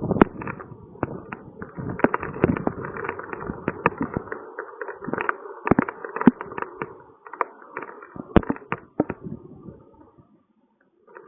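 Rain in a storm, heard as many sharp, irregular taps of drops striking a hard surface close by over a hiss of falling rain. It thins out and fades almost to nothing near the end.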